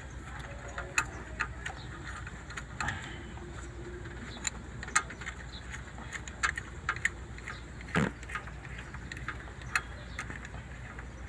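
Metal tools and engine parts clicking and clinking irregularly as fuel injector parts are fitted on a Caterpillar C6.4 diesel engine, with one louder knock about eight seconds in, over a low steady hum.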